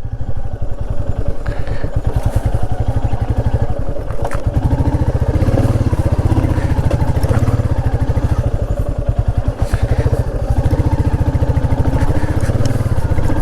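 Motorcycle engine running at low, steady revs as the bike rides slowly over a rough dirt trail, with a few brief knocks and clatter from the bike over the uneven ground.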